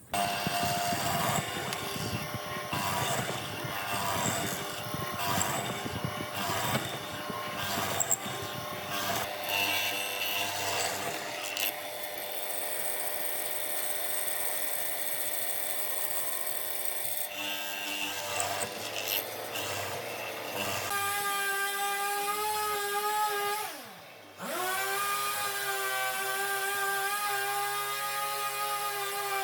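Power tools working wood. First comes a rough, rhythmic cutting or sanding noise, then a high, steady motor whine. Near the end the whine briefly winds down and picks straight back up.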